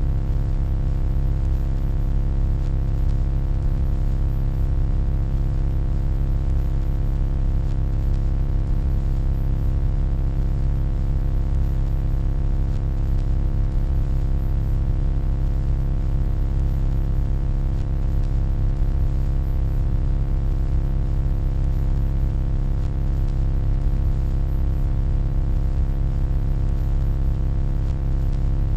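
Steady electronic hum: a deep low rumble with a stack of steady tones layered above it and a faint hiss, constant and unchanging.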